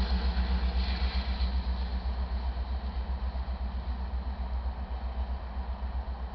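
Low rumble of a departing iron ore freight train, fading steadily as it moves away, with a road vehicle's engine as a pickup drives across the tracks.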